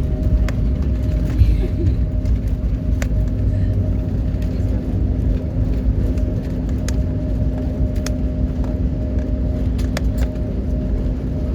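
Steady low engine rumble with a constant hum and scattered faint clicks.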